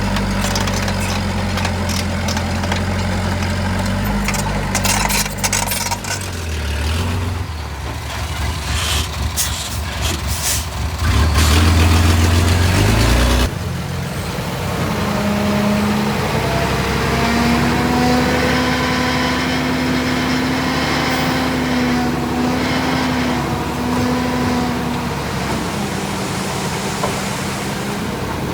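Heavy diesel machinery engines running under work, with rattling and hissing in the first half. About halfway through the sound changes abruptly to another engine running steadily, with a wavering whine.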